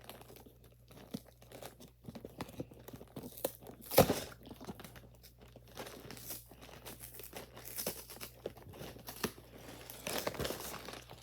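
A cardboard Lego set box being worked and torn open by hand: scattered rustles, crunches and small tears, with one sharp, louder tear or snap about four seconds in.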